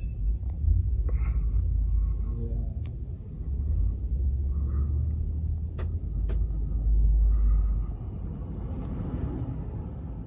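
Low, uneven rumble of a car on the move, with a few faint sharp clicks.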